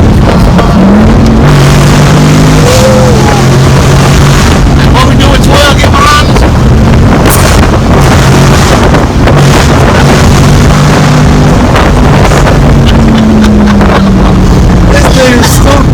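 Car engine and exhaust running under way, its pitch holding steady and then stepping to a new level several times, with wind buffeting the microphone.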